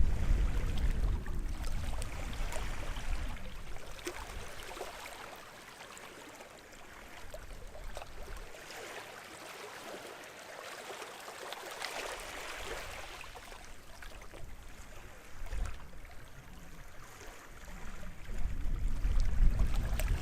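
Small sea waves washing onto the shore of a sheltered bay, the hiss of water swelling and falling back twice. A low wind rumble on the microphone fades away over the first few seconds and comes back near the end.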